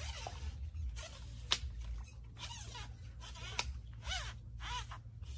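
Small birds giving short, arching chirps several times, with a few sharp clicks in between.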